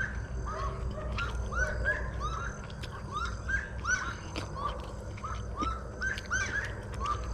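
Chorus of short, repeated chirping animal calls, several a second and overlapping, over a steady low background rumble.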